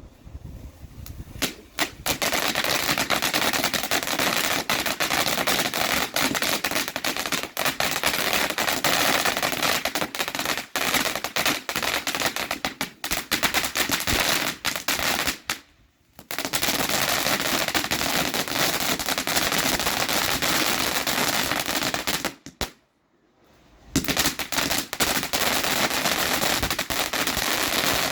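Fireworks going off in a dense, rapid, continuous run of cracks and bangs, like a machine gun. It breaks off twice for about a second and then carries on.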